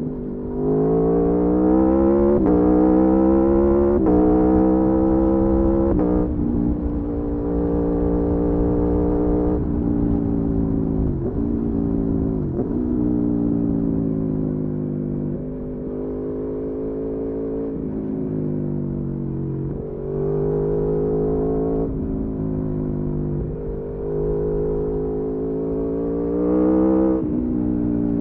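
Aprilia Tuono V4 motorcycle's V4 engine under load on the road. Its pitch climbs with the revs and drops sharply at each gear change, several times over, then settles into steadier cruising stretches before pulling again.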